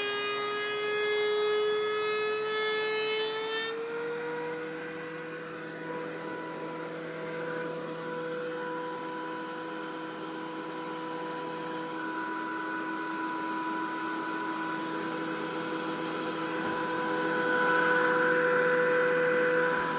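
Thickness planer running with a steady, high motor whine. About four seconds in the pitch rises slightly and the sound changes, then it runs on steadily and grows louder near the end.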